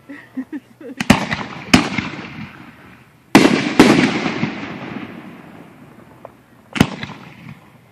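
Aerial fireworks bursting: two quick bangs about a second in and another just after, a loud pair of blasts around three and a half seconds in with a long fading rumble, and one more bang near the end.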